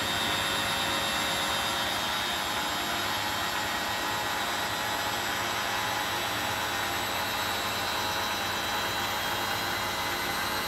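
Beko WTB740E1W front-loading washing machine running with its drum spinning: a steady, even whirr with a faint high whine held throughout.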